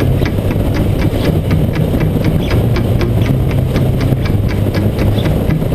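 Motorcycle engine running steadily, with a low hum and a regular ticking about five times a second.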